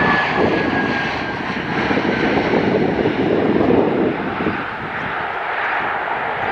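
Jet airliner engines roaring as the aircraft passes, with a thin high whine slowly falling in pitch in the first second or so; the roar eases slightly after about four and a half seconds.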